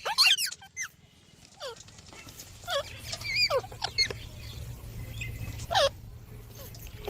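Green parrots giving short, sharp squawks that fall in pitch. Several come in a quick cluster at the start, then single calls follow every second or so.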